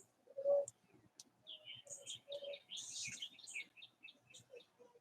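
Songbirds chirping, with a quick run of high chirps from about a second and a half in to about four seconds, and a few lower notes, the loudest about half a second in.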